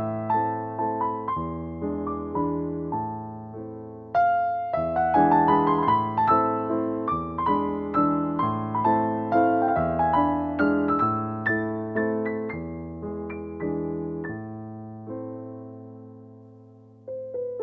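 Background piano music: a gentle melody over sustained chords, with notes that strike and die away; one phrase fades out late on and a new one begins near the end.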